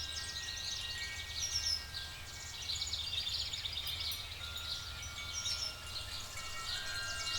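Night-forest ambience: dense high chirping and trilling calls of small creatures repeating throughout, over a low steady rumble and a few soft held tones.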